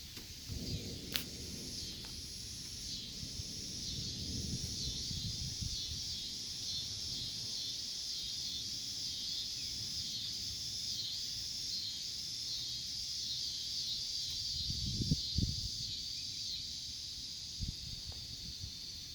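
Steady, high, pulsing chorus of insects such as crickets, with gusts of wind buffeting the microphone now and then, strongest about fifteen seconds in. A single sharp click sounds about a second in.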